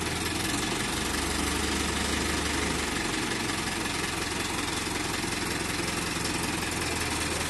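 Mahindra Arjun 605 DI tractor's diesel engine running at a steady speed.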